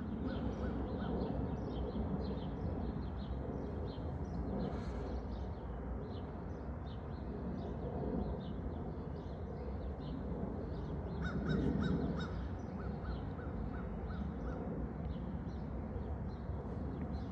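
Birds chirping and calling again and again over a steady low background rumble, with a quick run of rapid repeated call notes about two-thirds of the way through.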